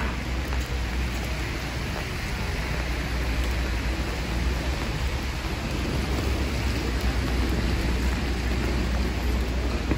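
Steady rain on a wet city street, an even hiss with a low rumble underneath.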